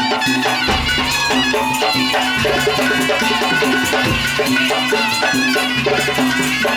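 Madurese musik daul (tong-tong) ensemble playing: a fast, even percussion beat with rattles, and a melody line over it.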